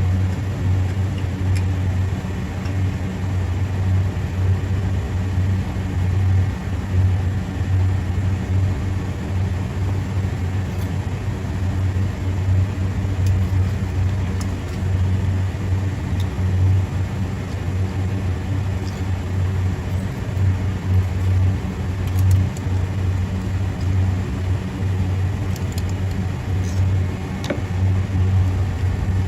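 Steady low machinery hum with a few faint ticks.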